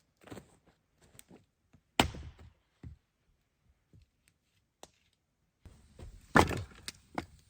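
Scattered knocks and thuds from hard objects being handled: one sharp knock about two seconds in, faint clicks, then a louder cluster of knocks with some rustling near the end.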